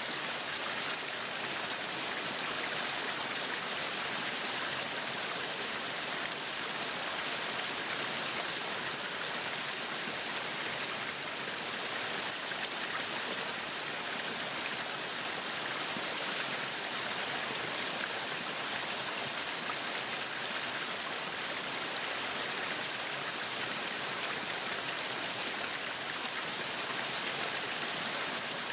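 Meat sizzling on a yakiniku grill: a steady, dense crackling hiss.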